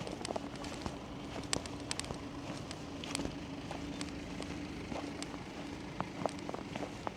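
Footsteps crunching in snow, heard as irregular crisp clicks and crackles, over a steady hum that fades about five seconds in.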